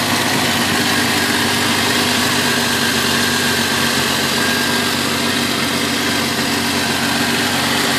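1994 Jeep Cherokee's 4.0-litre high-output straight-six idling steadily just after a cold start.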